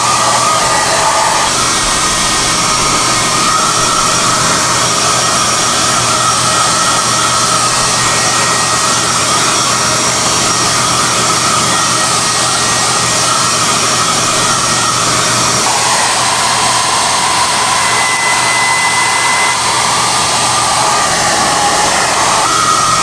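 High-airflow SOUNATE hair dryer running steadily, a loud rush of air with a high motor whine that shifts slightly in pitch a few times.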